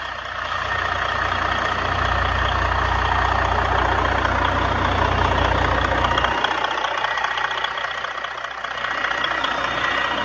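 2013 Detroit Diesel DD15 14.8-litre inline-six diesel engine running steadily at idle; its deep low rumble drops away about six seconds in while the running noise continues.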